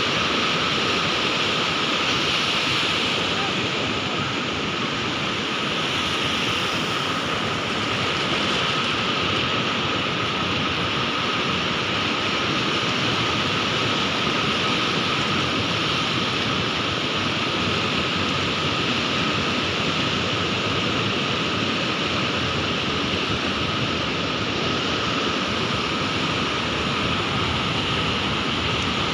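Sea surf washing in a continuous, even rush with no distinct breaking waves, and a thin steady tone running through it.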